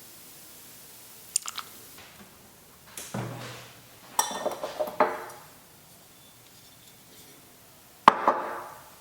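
Kitchenware clinking and knocking while baking: a few light clicks, a cluster of ringing clinks around the middle, and one sharp, ringing clink near the end.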